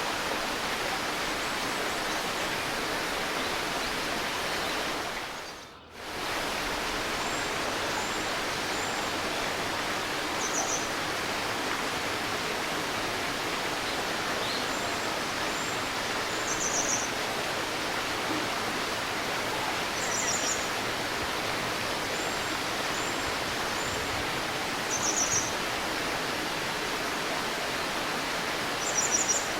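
Steady rush of a river over stones, with a small bird giving short, high chirps every few seconds, in quick clusters toward the end. The water sound dips out briefly about six seconds in.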